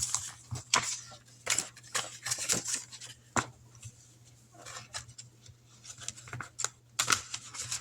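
Paper handling: dollar bills and a paper tracker card rustled, tapped and slid into a budget envelope, in irregular short rustles and clicks.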